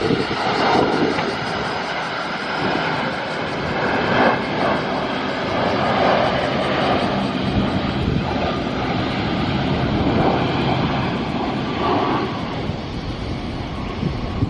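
Jet airliner engines running close by, heard through strong gusty wind buffeting the microphone, the level rising and falling unevenly.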